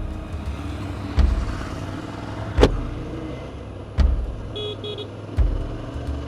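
Motor vehicles running in traffic, with a steady low engine hum. A heavy thud comes about every one and a half seconds, and a short double beep sounds about two-thirds of the way through.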